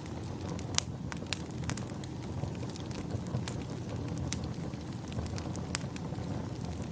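Wood fire crackling in a fireplace: irregular sharp pops and snaps over a low, steady rush.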